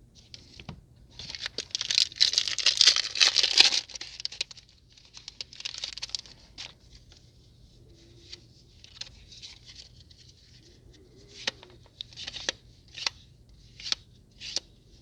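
Foil booster pack torn open and crinkled for a few seconds, followed by cards being slid and flicked one at a time, short sharp flicks coming every second or so near the end.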